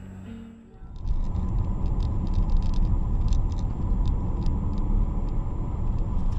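A car driving, a steady low rumble of engine and road noise with scattered faint clicks, starting about a second in.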